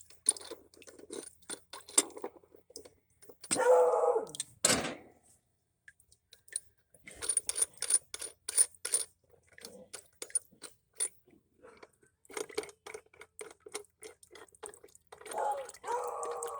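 Faucet top being unscrewed by hand and tool: irregular metal clicks, taps and scrapes of the parts being worked loose, with two louder, longer bursts about four seconds in and near the end.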